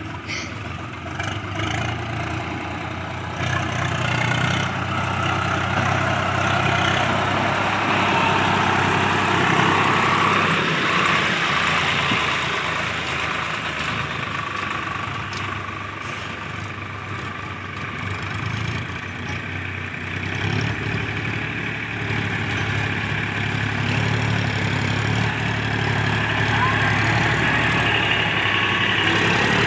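Diesel tractor engine running steadily under a broad mechanical clatter, the loudness swelling and easing and highest near the end.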